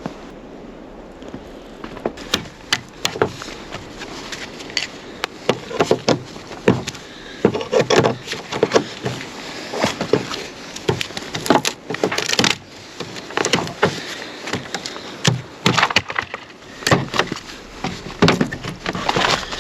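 Wood being worked by hand: a series of irregular sharp wooden knocks, cracks and clatters, some close together, others a second or more apart.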